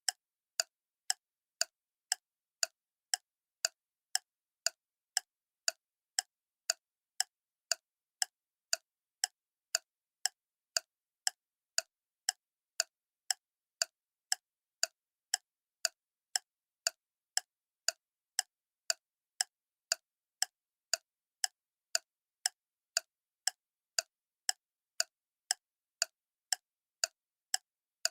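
Clock ticking steadily, about two sharp, even ticks a second.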